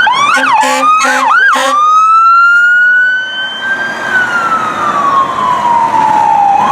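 Fire engine siren switching from a fast yelp to a slow wail that climbs for about two seconds and then falls away, with a few short low horn blasts during the yelp in the first two seconds.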